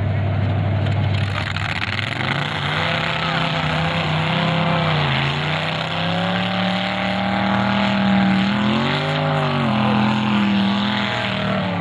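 Demolition derby car engines revving hard under load as the cars push against each other, the pitch sagging and climbing back about three times.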